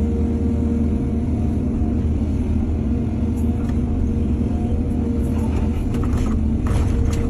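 Heavy diesel engine of an excavator running steadily, with a few short knocks or scrapes near the end.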